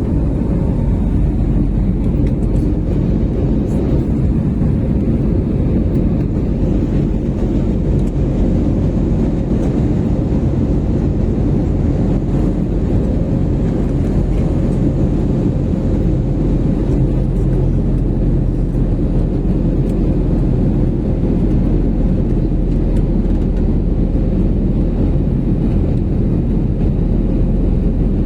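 Airliner cabin noise: the steady, loud, low rumble of the jet engines and airflow, with a faint steady hum above it.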